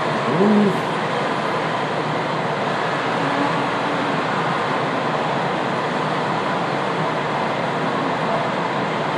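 Steady hum and hiss of a JR West 227-series electric train standing at its platform before departure, with a few brief faint tones about half a second in and again around three seconds.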